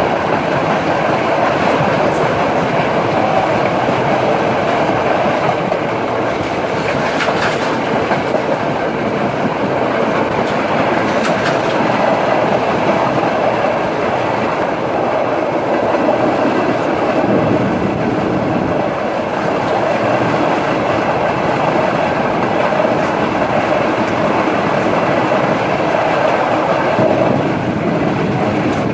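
Passenger express train running along the track: a steady rumble of the carriages with wheel clatter on the rails and a few faint clicks.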